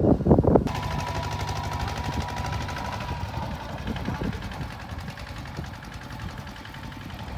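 Rice combine harvester's engine and machinery running steadily, with a fast, even clatter and a faint steady whine. Before it, under the first second, loud wind buffeting on the microphone, cut off abruptly.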